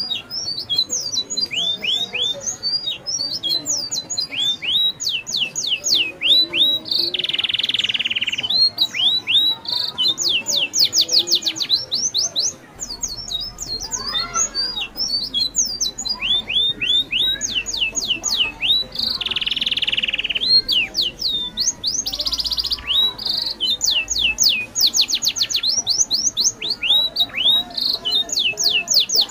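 Forest birds calling in fast runs of quick, high, sweeping chirps, broken twice by a longer buzzing note lasting about a second.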